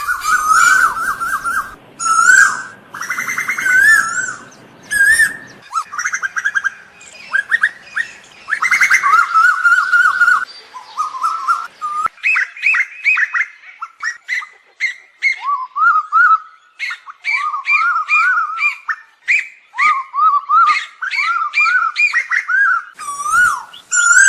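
Asian koels calling: dense strings of quick, whistled notes that rise and fall, with two strings at different pitches overlapping in the second half.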